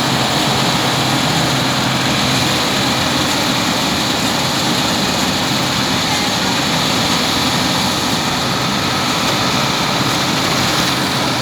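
New Holland 8070 combine harvester running steadily under work: a loud, even mix of engine drone and machinery noise that holds level throughout.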